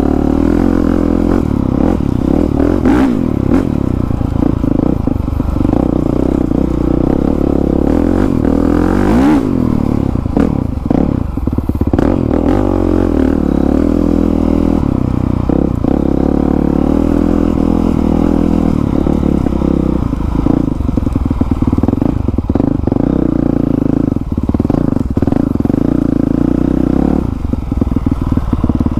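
2020 Honda CRF450R's single-cylinder four-stroke engine running through its new exhaust on a trail ride, the revs rising and falling with the throttle, with sharp rises about 3, 9 and 12 seconds in. Clattering knocks from the bike over rough ground run along with it.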